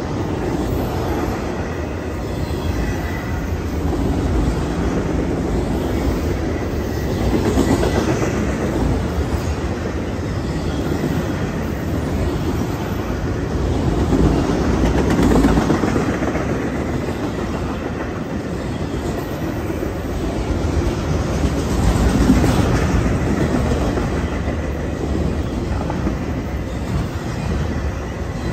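Freight train of enclosed autorack cars rolling past: a steady rumble and clickety-clack of steel wheels on the rails, swelling and easing about every seven seconds, with a faint steady high ring.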